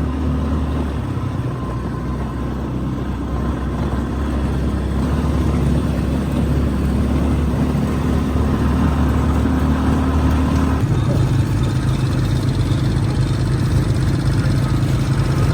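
Quad bike engine running steadily while riding, its note changing about eleven seconds in as the revs shift.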